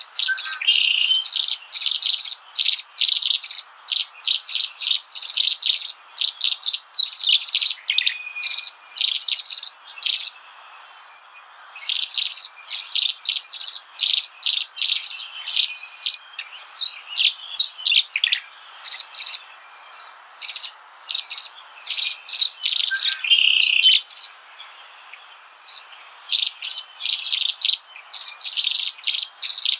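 Small birds chirping in quick runs of short high notes, pausing a few times.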